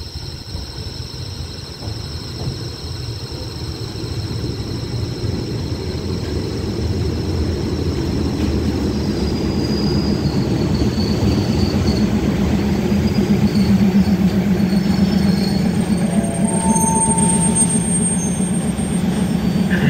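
Diesel railcar train pulling into the station, its rumble growing steadily louder as it approaches and runs along the platform, with a short squeal as it brakes near the end.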